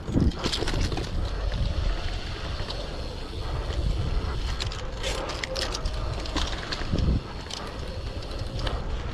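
Bicycle being ridden on dirt jumps: tyres rolling over dirt and the bike rattling and clicking, with wind buffeting the microphone. Two heavy thumps, one just after the start and one about seven seconds in.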